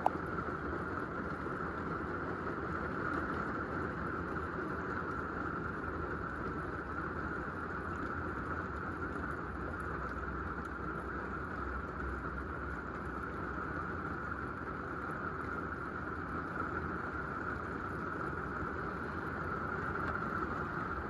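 Steady rain falling on an RV's roof, an even hiss without separate drops standing out.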